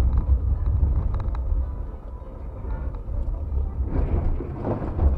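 Low rumble of a moving vehicle, with a short noisy surge about four seconds in.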